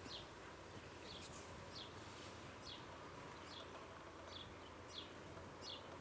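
A small bird repeating a short, high, falling call every second or so, faint, over a steady low background hum.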